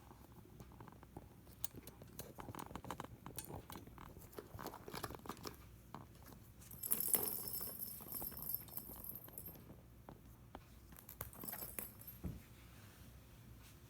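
A cat toy being batted and knocked about by cats: scattered light clicks, taps and rustling, with a brief bright jingle about seven seconds in.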